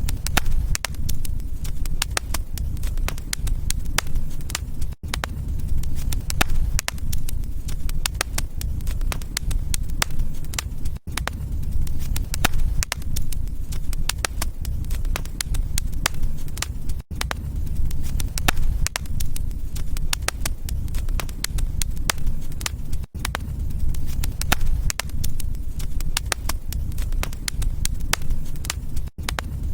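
Wood fire crackling in a fireplace: many sharp crackles over a steady low rumble of the flames, broken by a very brief dropout about every six seconds.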